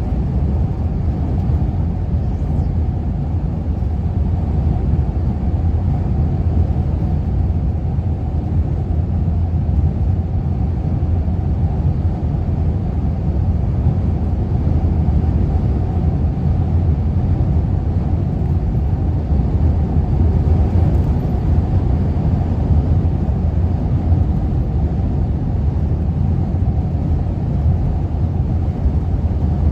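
Wind blowing hard across the microphone: a steady, loud low rumble with no breaks.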